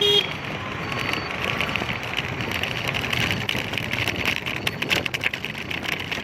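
Wind buffeting the microphone and road and traffic noise while riding a two-wheeler, with a short beep right at the start.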